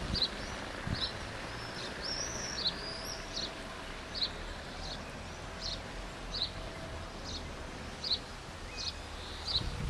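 A small bird chirping over and over, a short high note about every three-quarters of a second, with a few longer swooping notes a couple of seconds in. Beneath it runs a steady outdoor hiss and low rumble.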